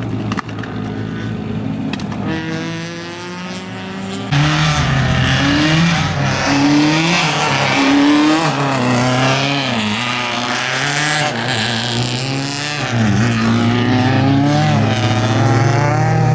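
Rally car engine at full throttle, getting much louder about four seconds in as the car comes close. Its revs repeatedly climb and then drop.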